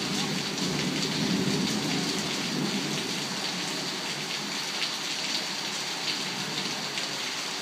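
Torrential rain hissing steadily as it pours onto surfaces, with a low rumble of thunder through the first three seconds.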